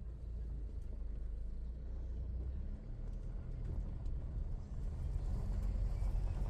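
Steady low rumble of a vehicle running, growing a little louder near the end.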